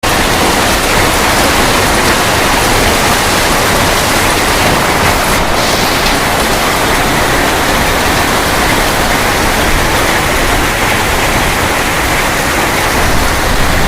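Heavy rain mixed with hailstones pouring down in a dense, steady downpour.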